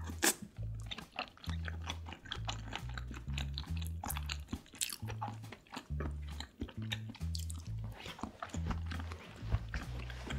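Close-miked eating of soft seafood: chewing and wet mouth sounds with many short clicks. Background music with a stepping bass line plays underneath.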